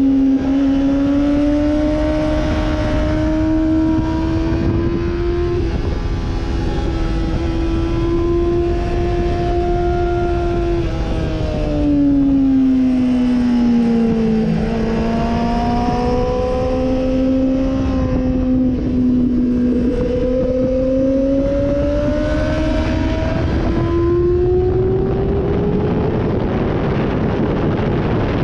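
Sportbike engine running hard, its pitch climbing slowly, dropping and then climbing again as the throttle and gears change through the lap, over a steady rush of noise.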